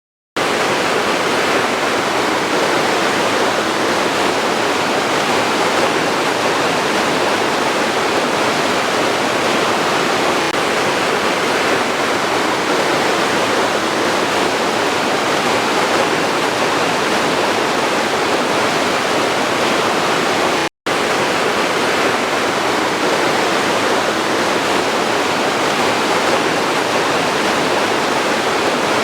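Waterfall rushing: a loud, steady wash of falling water, broken once by a momentary gap about two-thirds of the way through.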